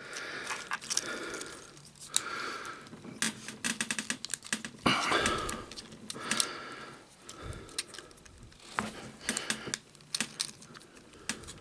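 Plastic parts of a Transformers action figure clicking and rattling as they are folded and snapped into place, in irregular small clicks.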